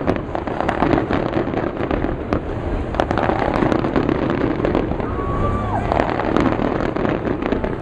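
Large fireworks display: a steady barrage of bangs and crackling over a continuous rumble, with crowd voices and a short falling whistle about five seconds in.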